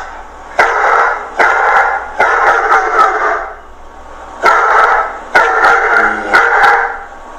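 A dog barking repeatedly in two runs of calls, with a pause of about a second between them.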